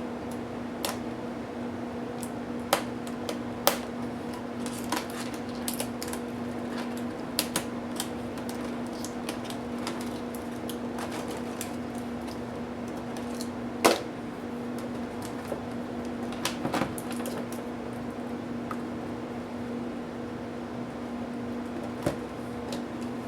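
Scattered clicks and taps from small tools and plastic laptop parts being handled during disassembly, the loudest about fourteen seconds in, over a steady low hum.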